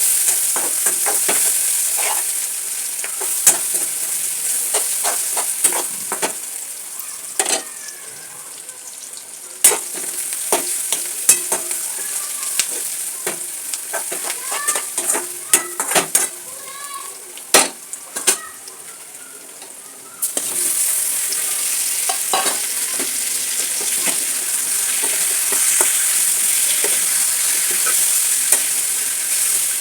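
Chicken curry sizzling in a pan while a spoon stirs it, knocking and scraping against the pan. The sizzle fades for a while in the middle, with only the knocks of the spoon, then comes back suddenly about two-thirds of the way through.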